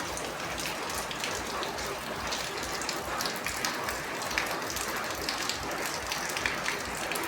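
Steady rain falling on a hard surface, with many individual drops ticking sharply over the even hiss of the downpour.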